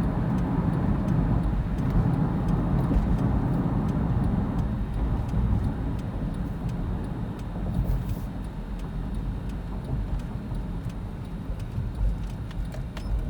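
Road and engine noise inside a moving car's cabin, a steady low rumble that eases off after about five seconds as the car slows.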